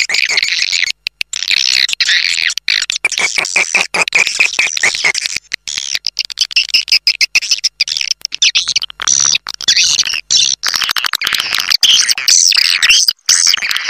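Swiftlet call recording, the lure sound played to draw edible-nest swiftlets to a nesting house: dense, high twittering chirps broken by many sudden short cuts.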